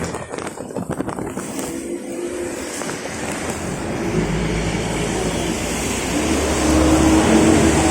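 A motor vehicle engine running, building up and getting louder over the second half, after a few clicks and rattles at the start.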